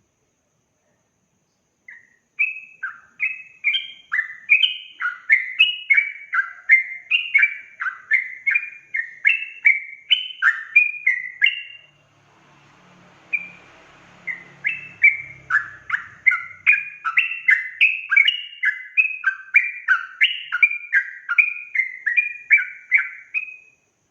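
Yellow-vented bulbul (trucukan) singing a long, fast run of bubbling, liquid notes, about two to three a second. It breaks off briefly about halfway through, leaving a faint low rumble, then picks up again. This is the continuous 'ropel' song of a bird in full voice.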